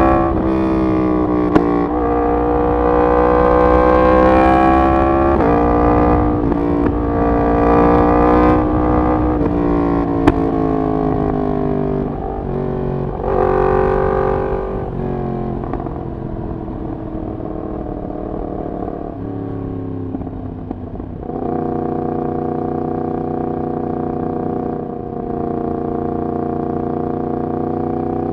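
Yamaha MT-10's crossplane inline-four running through a de-catted full exhaust system, pitch climbing and dropping through gear changes, with two sharp cracks near the start and about ten seconds in. In the second half the engine settles to a lower, steadier cruise with a brief dip near the end.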